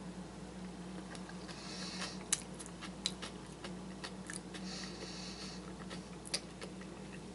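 A person quietly chewing a mouthful of food, with a few faint clicks, over a steady low hum.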